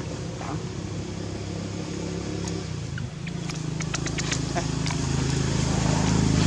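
A low, steady motor hum that grows louder toward the end, with a quick run of sharp clicks about halfway through.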